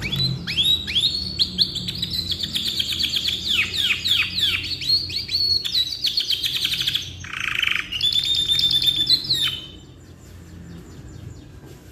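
Domestic canary singing a long song of fast trills and rapidly repeated sweeping notes, with a short buzzy passage, stopping abruptly about two seconds before the end.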